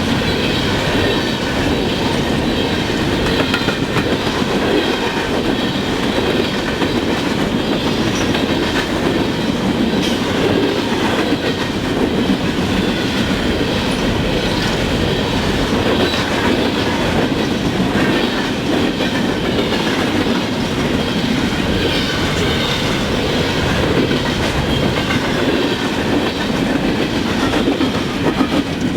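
Freight train cars rolling past at track side: a steady rumble of steel wheels on rail, with clicking over rail joints and a faint high ringing from the wheels.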